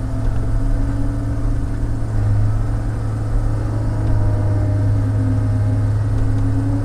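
Log loader's diesel engine running steadily, a low even drone with a faint whine above it that rises and falls slightly in pitch.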